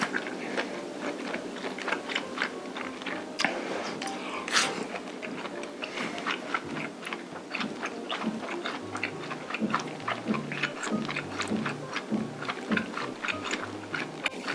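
Close-miked chewing of spicy stir-fried webfoot octopus and rice: a dense run of wet clicks and smacks. Light background music with a low bass line joins about two-thirds of the way in.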